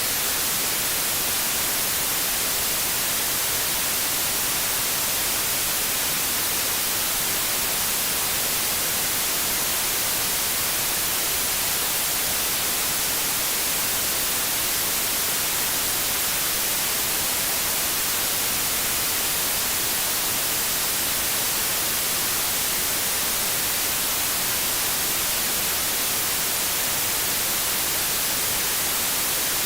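TV static: a steady, unchanging white-noise hiss, strongest in the treble.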